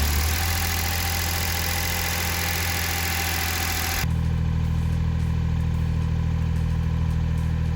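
Daihatsu Atrai Wagon's worn, high-mileage three-cylinder engine running steadily; the engine burns oil heavily and is known for an abnormal noise. About four seconds in the sound changes suddenly, losing its hiss, to a steady low idle hum.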